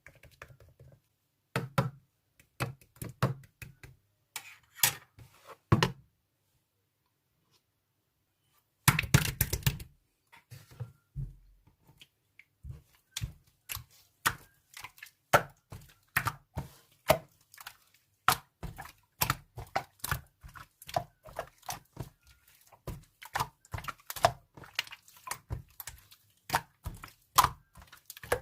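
Slime being pressed and stretched by hand, giving a string of sticky pops and clicks: sparse at first, a pause of about three seconds, then a dense run of several pops a second.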